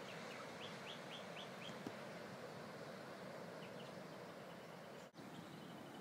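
Small birds calling over a steady wash of distant surf: a run of about six short rising chirps in the first two seconds, a couple more near the middle, then a fast, even trill near the end. The sound drops out for a moment about five seconds in.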